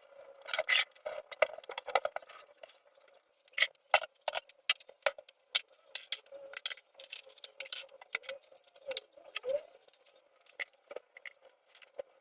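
Irregular clicks, taps and light rattling of household objects being handled, over a faint steady tone.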